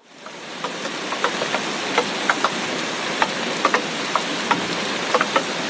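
Heavy tropical-storm rain: a steady hiss of downpour with large drops striking a surface in sharp, irregular taps, about three a second. It fades in at the very start.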